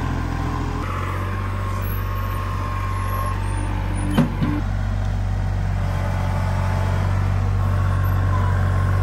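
An engine running steadily at a constant speed, with one short knock about four seconds in.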